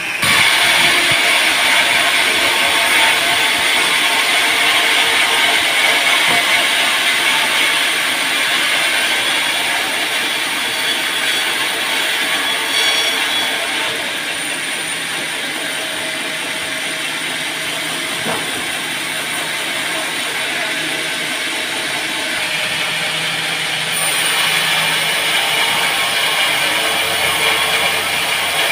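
Band sawmill running, its blade sawing through a teak log with a continuous mechanical noise. It grows a little louder about twenty-four seconds in.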